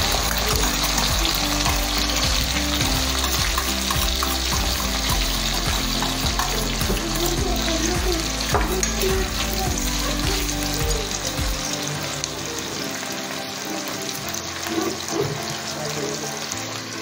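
Boiled chicken pieces sizzling steadily in hot oil in a non-stick pan, with a steel spoon scraping and stirring them now and then. A low hum underneath cuts off about two-thirds of the way in.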